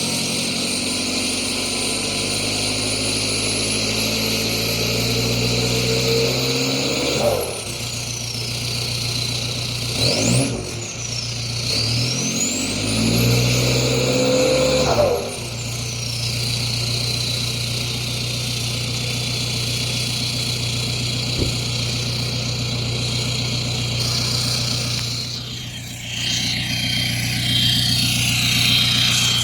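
Straight-piped TDI turbodiesel engine pulling hard through the gears, its pitch climbing and dropping at roughly three gear changes, with a high turbo whistle over the exhaust. After the last change it settles to steady running while the whistle falls away, and near the end a noisy rush comes in.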